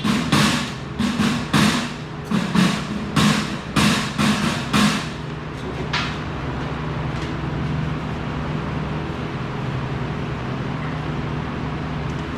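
A run of about nine loud bangs, roughly two a second, that stops about five seconds in, typical of hammering on steel, over a steady low machine hum that carries on.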